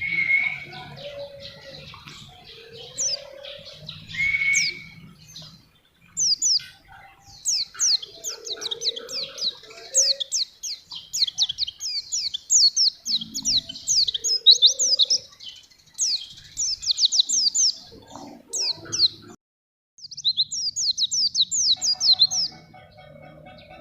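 White-eye (pleci) singing: fast runs of high, thin, downward-slurred notes in bursts, with short pauses between them. One brief total drop-out comes a little after the middle.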